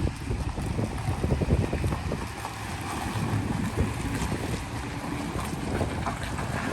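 Wind buffeting the microphone in irregular low gusts and rumbles.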